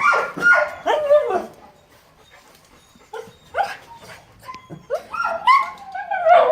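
Dogs whining and yipping in short, falling-pitched cries: several at first, a brief lull, then more toward the end.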